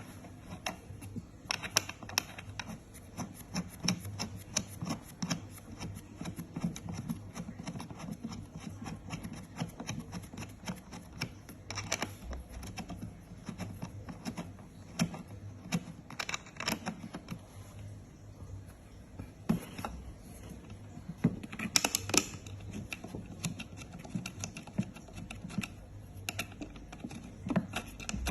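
Parts of a dog bowl stand being handled and fitted together: irregular clicks, taps and knocks, a few sharper bursts of them, over low scraping and handling noise.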